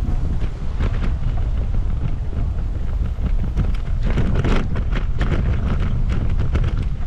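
Wind buffeting the microphone in a steady low rumble, with irregular footsteps along a paved path. The steps grow busier for a moment about four seconds in.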